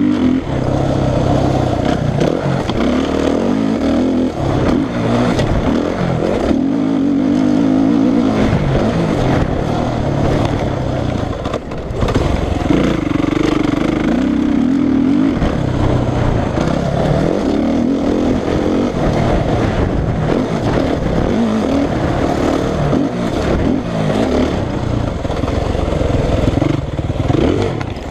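Suzuki RM-Z450 dirt bike's single-cylinder four-stroke engine under load, its pitch repeatedly climbing and dropping as the throttle is opened and closed and the rider shifts, with a short drop in level partway through.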